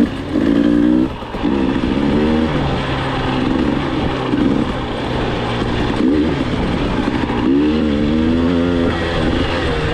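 Enduro dirt bike engine revving up and down in repeated throttle bursts, its pitch climbing and dropping about five times.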